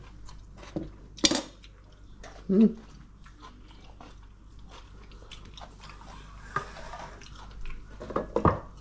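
A person chewing a mouthful of raw cabbage coleslaw, a run of small crisp crunches and mouth clicks. There is a sharp click about a second in and a few louder crunches near the end.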